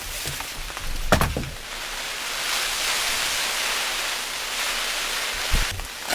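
Steady rain falling, with a short knock about a second in and another near the end.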